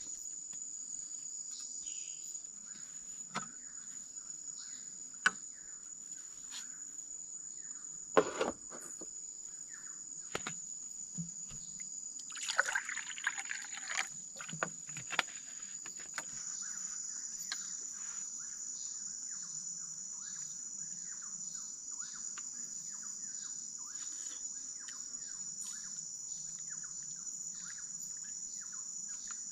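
Forest insects keep up one steady, high-pitched trill. Sharp knocks and a short clatter of handled gear break in now and then, most of them in the first half.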